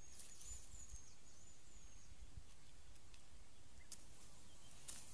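Faint outdoor ambience: a small bird chirping high and repeatedly through the first two seconds, then a few soft clicks and rustles from the string snare being set.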